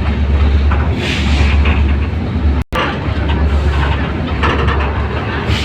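Matheran narrow-gauge toy train running, heard from inside a carriage: a steady low rumble under a noisy rush. The sound cuts out for an instant about halfway through.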